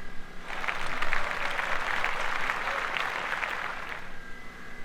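A few people clapping their hands for about three and a half seconds, then stopping.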